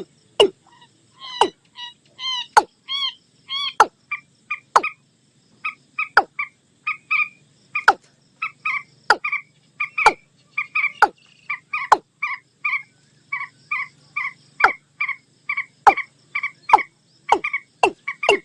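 Recorded calls of a watercock mixed with a common moorhen, as used for lure playback: sharp, falling notes come roughly once a second. Under them runs a quick series of short, two-pitched clucking notes that goes on steadily from about six seconds in.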